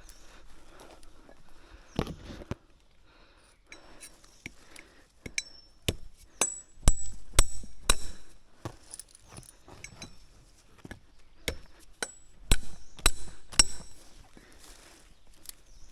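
Irregular sharp knocks and taps, one about two seconds in and then two busy clusters in the middle and near the end. Several of them carry a brief high ring, and the loudest fall a little past the middle.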